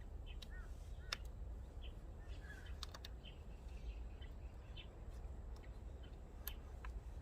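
Birds chirping in the background over a low steady rumble, with a few sharp clicks, one about a second in, two close together near three seconds and one near the end.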